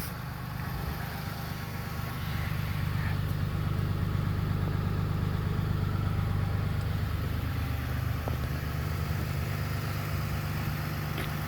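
Cummins 6.7-litre inline-six turbo diesel of a 2016 Ram 3500 idling steadily, a low even rumble.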